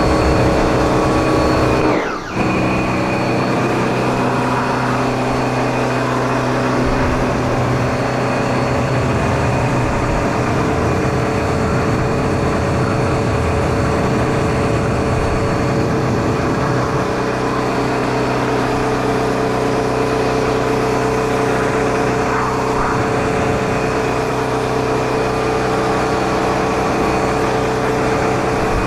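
Bosch electric pressure washer running steadily, its motor and pump humming under the hiss of the water jet, with a brief drop about two seconds in.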